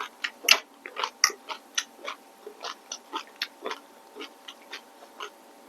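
A person chewing noodles and shrimp with the mouth close to the microphone: a run of irregular wet mouth clicks and smacks, about three or four a second.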